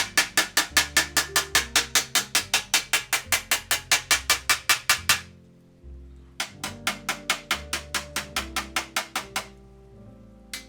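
Dent hammer tapping rapidly on a baritone's brass bell to work out sharp dents, at about five to six even blows a second. The tapping pauses for about a second midway and again near the end.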